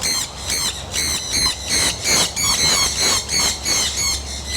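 Aviary of parrots screeching: rapid, shrill, overlapping calls, several a second.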